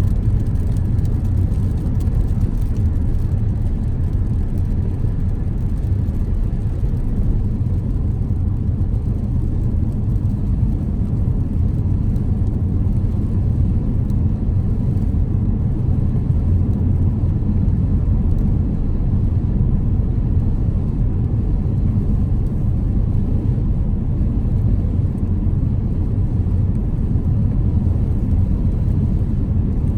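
Steady road rumble inside a moving car: tyre and engine noise, even and unbroken.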